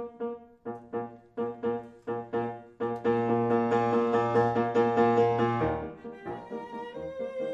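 Piano music accompanying a silent film: short repeated chords about three a second, then a louder, fuller passage in the middle that breaks off and gives way to softer notes near the end.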